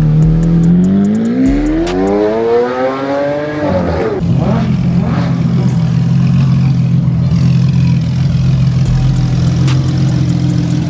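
A supercar engine idling, then revved once: the pitch climbs smoothly for about three seconds, drops sharply back about four seconds in, and the engine settles into a steady idle.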